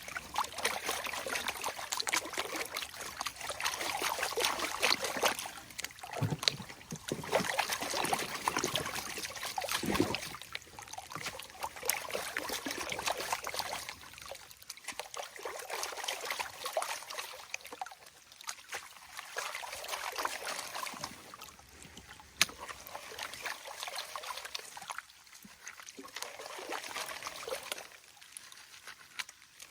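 Water and gravel sloshing and splashing in a gold pan being worked in a shallow creek, in repeated swells a few seconds long, with small stones clicking against the pan.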